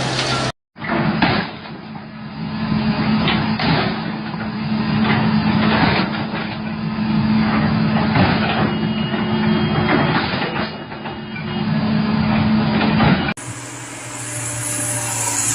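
A heavy machine's engine running with a steady drone, broken by many scattered clanks and knocks. Near the end it cuts sharply to a different, fuller-sounding engine recording.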